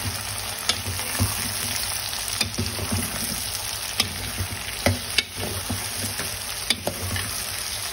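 Sliced ridge gourd sizzling in hot oil in a metal pan as a steel spoon stirs it, the spoon clicking and scraping against the pan every second or so.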